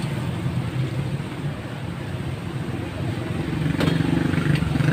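Motor scooter engines idling with a steady hum, growing louder in the last couple of seconds.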